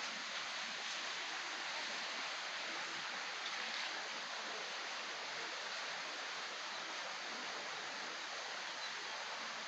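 Stream water running, a steady even rush with no breaks.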